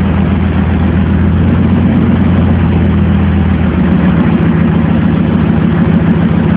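2000 Ford SVT Lightning's supercharged 5.4-litre V8, fitted with an aftermarket camshaft and a Borla exhaust, idling steadily with a low, pulsing exhaust note.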